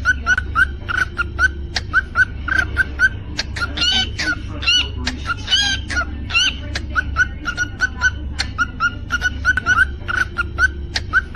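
Cockatiel chirping, short repeated chirps about three a second, with a few longer rising whistled calls from about three and a half to six seconds in. A steady low hum runs underneath.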